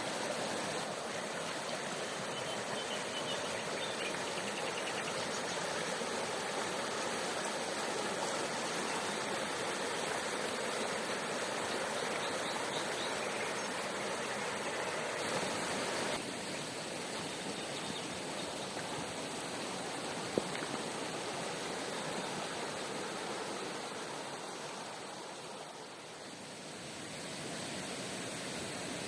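River water rushing steadily, with a single sharp click about two-thirds of the way through.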